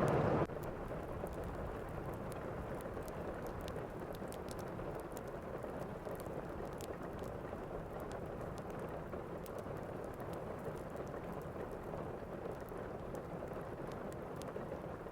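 Thunderstorm ambience: steady rain, with small faint crackles scattered through it. A louder, deeper rush cuts off suddenly about half a second in.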